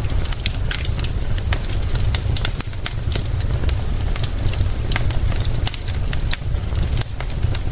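Wood fire crackling, with frequent sharp pops at irregular intervals, over a steady low rumble and an even hiss of rain.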